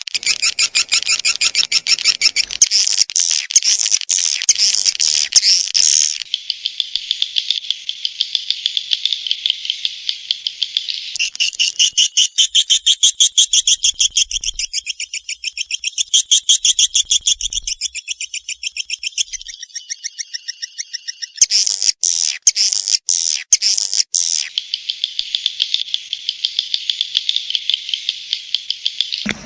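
Swiftlet call recording of the kind played to lure swiftlets into a nesting house: loud, rapid chirping trills that shift in pitch and pattern every few seconds.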